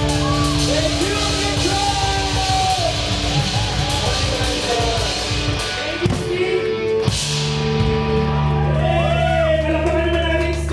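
Live rock band playing loudly: drum kit, bass and guitars under a lead vocal singing, close to the drums.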